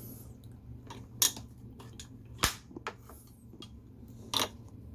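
Three sharp clicks and knocks, spaced irregularly about a second or two apart, the middle one the loudest: pens and pen caps being handled and set down on a desk while drawing. A faint steady low hum underneath.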